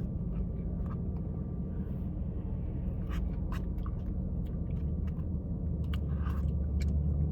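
Steady low rumble inside a car, with scattered small clicks and chewing as someone eats cookies-and-cream ice cream.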